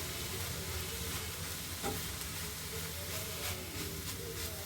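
Beetroot-leaf thoran sizzling steadily in an uncovered pan as it is stirred, with a few faint ticks.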